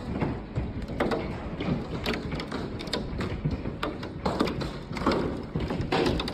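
Hailstones pelting hard surfaces: a dense, irregular clatter of impacts, with a few louder knocks now and then.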